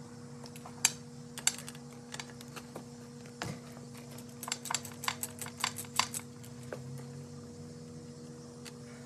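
Scattered light metallic clicks of hand tools removing spark plugs from a 1979 Evinrude 175 hp outboard, with a quick run of clicks about four and a half seconds in, over a steady low hum.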